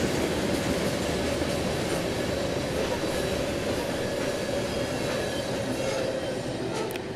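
Norfolk Southern freight train rolling by, a steady loud rumble and clatter of wheels on the rails. It cuts off abruptly at the very end.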